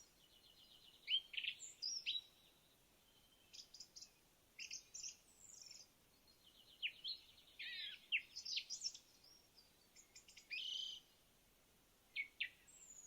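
Faint birdsong: many short chirps, whistles and quick sweeping calls, coming irregularly with short gaps between them.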